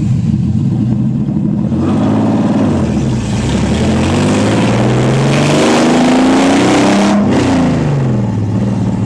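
Nissan 300ZX Z32's naturally aspirated 3.0 L V6 running with no exhaust fitted. It idles, then revs up as the car pulls away, dips at a gear change about three seconds in, and climbs again for about four seconds. The revs drop off sharply about seven seconds in.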